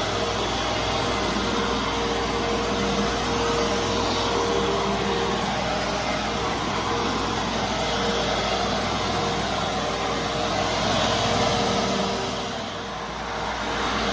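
Fantom Fury Special Edition bagless vacuum cleaner running steadily with a constant hum; the sound dips briefly near the end, then comes back up.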